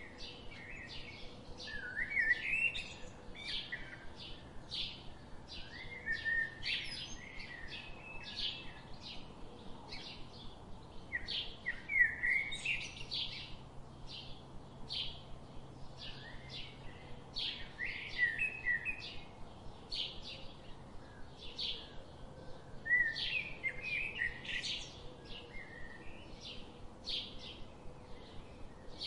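Birds chirping: a steady run of short, high chirps about twice a second, with a warbling phrase every few seconds.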